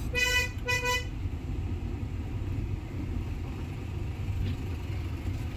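Isuzu Trooper's car horn gives two short beeps, now working again, while its 4JX1 four-cylinder turbodiesel keeps running with a steady low rumble.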